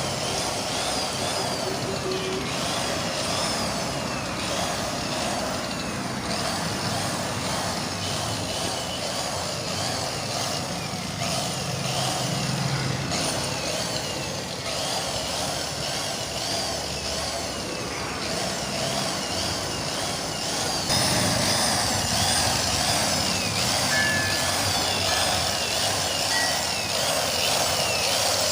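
Buffing machine polishing a Royal Enfield Bullet Electra engine casing: a steady whirring grind with a whine that rises and falls over and over, getting louder about three-quarters of the way through.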